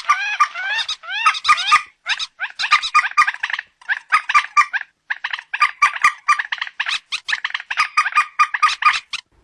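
Calls of a mandar batu, the common moorhen. A run of rising squeaky notes in the first two seconds gives way to bursts of rapid chattering notes, stopping just before the end.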